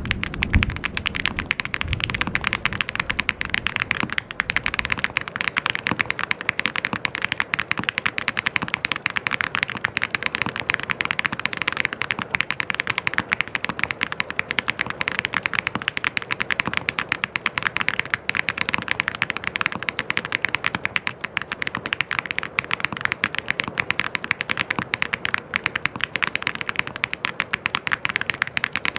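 Fast, continuous typing on a mechanical keyboard: a dense stream of key clicks, with a few deeper thumps in the first couple of seconds.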